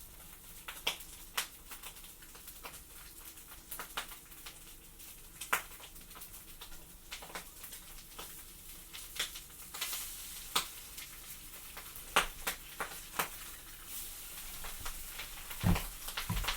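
Food frying in a pan: a steady sizzle with frequent sharp pops and crackles, and a couple of dull knocks near the end.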